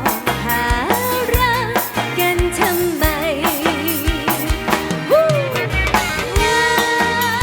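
Live band music: a drum kit keeps a steady beat under a lead melody that wavers with vibrato and slides up and down in pitch.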